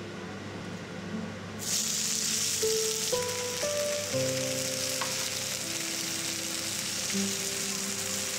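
Grated potato fritters frying in oil in a stainless steel pan: a steady sizzle that starts suddenly about a second and a half in, under soft piano music.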